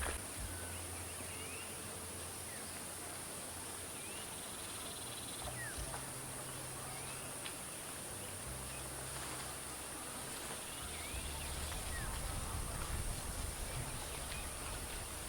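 Tropical forest ambience: a steady, high-pitched drone of insects such as cicadas or crickets, with short high chirps every few seconds.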